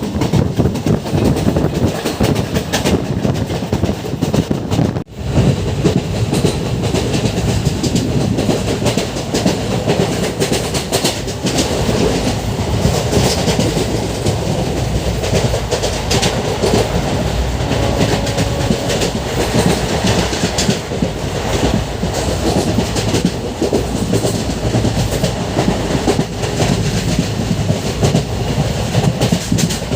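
Express passenger train running at speed, its wheels clattering over the rail joints in a steady rumble.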